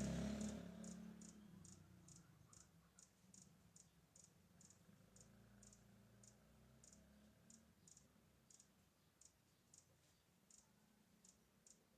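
Faint, high-pitched clicking repeated at about three clicks a second, the clicks spacing out near the end. A low rumble fades away over the first two seconds.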